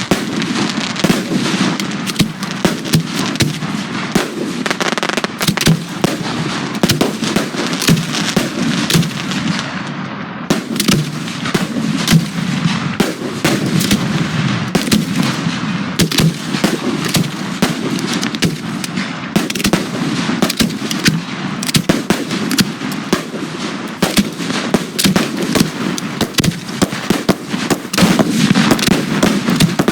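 Fireworks display firing a dense, continuous barrage of aerial shells and cakes: sharp launch and burst reports come several a second, overlapping one another.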